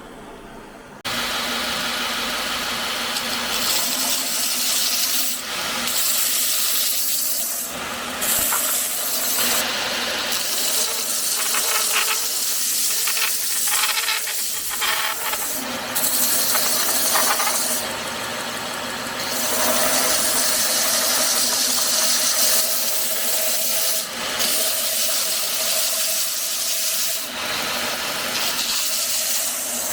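Power tool starts up about a second in and runs on with a steady hiss and a low hum, working the knife. Its sound dips and shifts every few seconds as the work is pressed on and eased off.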